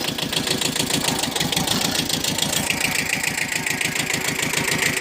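Kubota B6000 compact tractor's two-cylinder diesel engine idling steadily just after starting, with an even, rapid low chug. A high whine comes in about halfway through.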